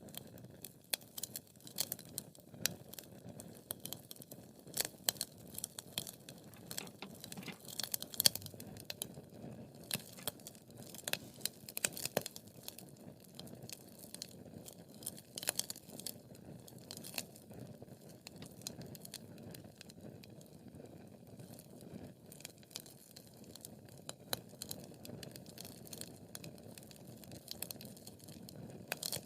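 Wood fire burning in a fireplace: frequent irregular sharp crackles and pops over a low steady rush of flame, busiest in the first half.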